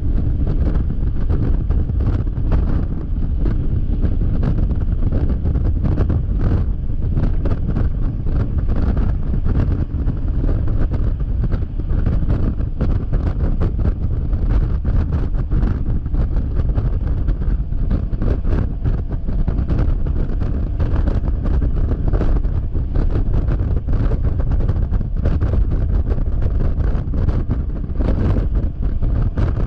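Wind buffeting a GoPro microphone on a Yamaha XMAX scooter at freeway speed: a loud, steady low rumble broken by frequent sharp crackles.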